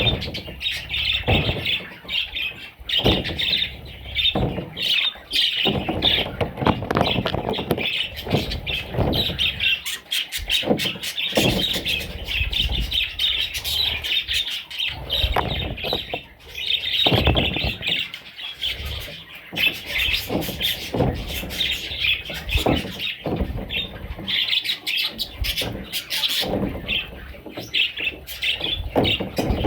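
A flock of budgerigars chattering, with dense, continuous chirping and squawks. Irregular knocks and bumps sound through it.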